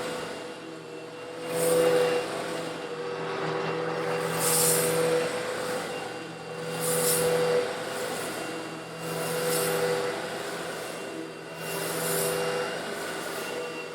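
Old Eureka vacuum cleaner running steadily and sucking up coarse stone granules. Its motor hum holds constant while a gritty, hissing rattle swells and fades about every two and a half seconds.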